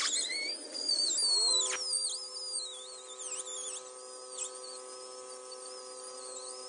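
Small electric power tool running at a steady speed, with a high wavering squeal over it.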